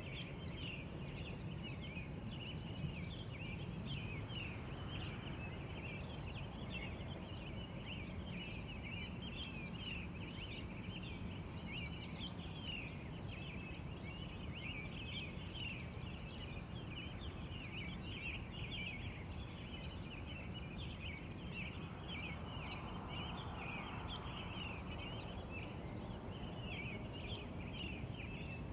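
Pre-dawn outdoor chorus: a steady high insect trill and a dense, continuous run of short chirps, with a bird giving a brief higher call of quick sweeping notes about twelve seconds in. A constant low rumble lies underneath.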